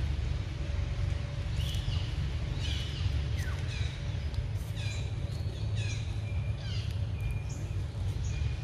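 Birds calling repeatedly in short high notes, most of them falling in pitch, about one or two a second, over a steady low rumble.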